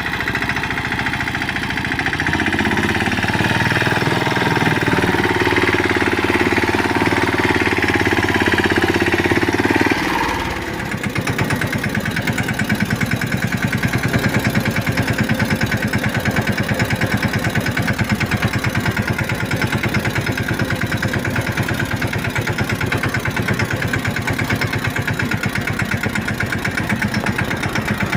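Tractor engine running steadily at higher revs, then dropping about ten seconds in to a slower, evenly pulsing idle.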